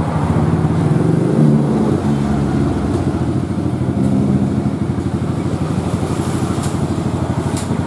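Kawasaki KLX single-cylinder motorcycle engine running through an aftermarket GP7 exhaust, with the throttle eased up briefly about a second in and again around four seconds in.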